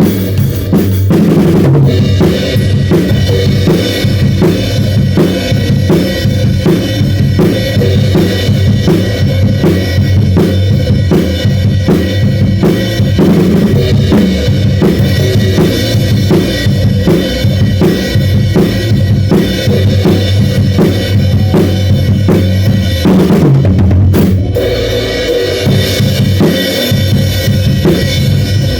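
Drum kit played in a steady groove of kick and snare over a band's backing music, with a brief break about 23 seconds in before the beat picks up again.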